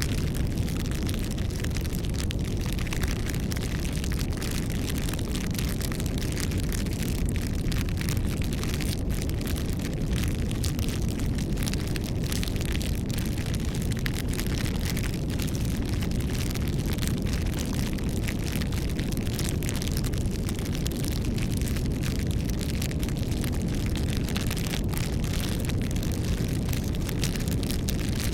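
Wood campfire burning steadily: a low rumble of flame under dense, continuous crackling and popping of the burning wood.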